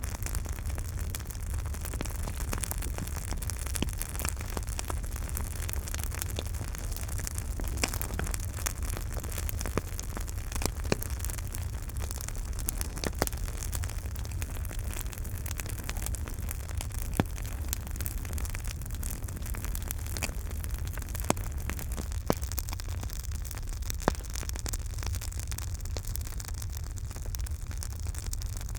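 Campfire burning: a steady rushing hiss and low rumble of the flames, with frequent crackles and a few sharper pops from the burning wood.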